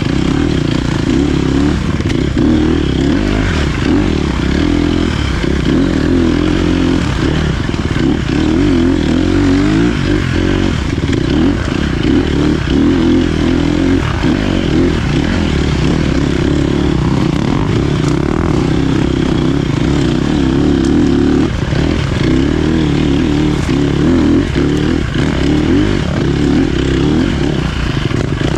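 Dirt bike engine running loud and continuously while being ridden, its pitch rising and falling with the throttle.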